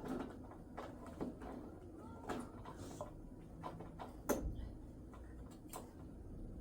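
Irregular light knocks and clicks of household objects being handled, the loudest about four seconds in.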